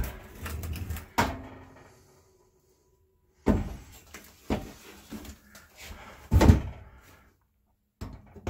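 Metal clunks and knocks as an oven door hinge is worked into the oven's sheet-metal slots: a handful of separate knocks, the loudest about six and a half seconds in.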